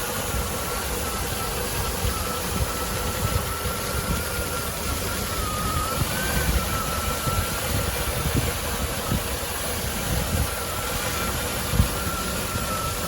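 Rebuilt 4.0-litre V8 of a 1998 Land Rover Defender 90 idling warm and quiet, with a very slightly uneven idle. A thin steady whine runs over the engine note.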